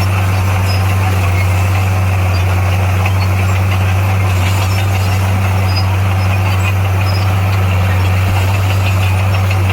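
Heavy diesel engine of earthmoving equipment running at a steady speed, with a constant low drone.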